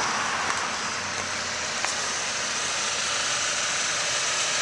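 A 2.0-litre engine idling evenly shortly after a cold start, with a steady hiss over it.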